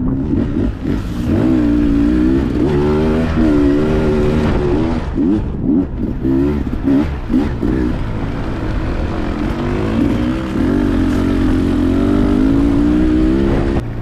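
Dirt bike engine revving up and down as the rider works the throttle on and off, its pitch rising and falling in quick swells, with the most rapid changes in the middle.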